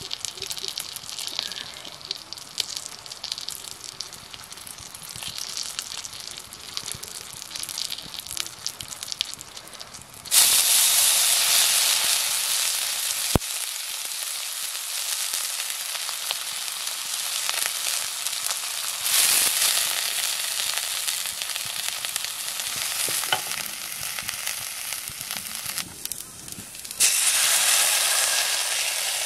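Hot oil in a wok over a wood fire sizzling, with a sudden loud sizzle about ten seconds in as food goes into the pan, easing off and surging again twice later. A single sharp click a few seconds after the first surge.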